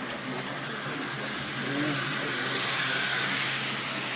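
Exhibition hall hubbub: indistinct background voices over a steady running hum that swells a little about two seconds in.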